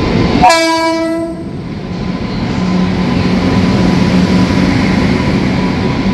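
A short blast, under a second, from the horn of an Indian Railways WAP-7 electric locomotive, about half a second in. After it comes the steady rumble and wheel clatter of the express train running past close by, with a low steady hum.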